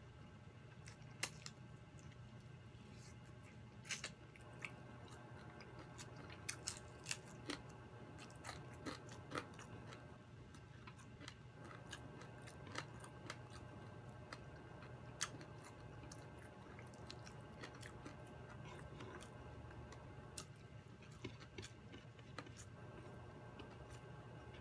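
Close-miked chewing and biting of food eaten by hand, with scattered short crunchy clicks, over a faint steady hum.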